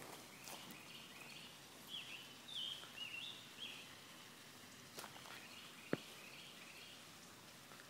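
Faint outdoor background with a small bird chirping a quick run of five or so short, high notes about two seconds in, and a single sharp click about six seconds in.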